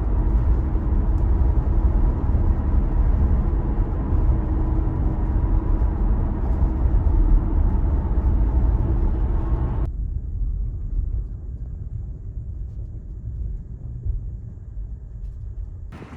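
Steady low rumble of a moving vehicle. About ten seconds in, the upper part of the noise drops away and it grows gradually quieter.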